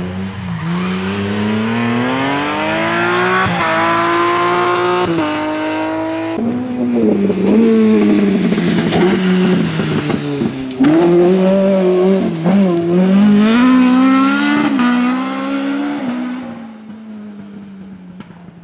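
Rally car engine at full throttle, climbing in pitch through several upshifts with a short drop at each gear change, then revving up and down before fading away near the end.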